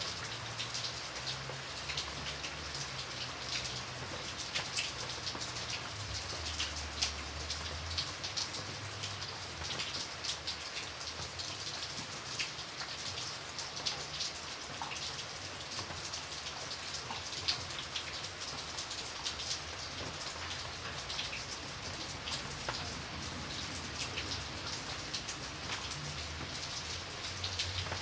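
Steady rain falling, with many separate drops ticking sharply on a hard surface throughout.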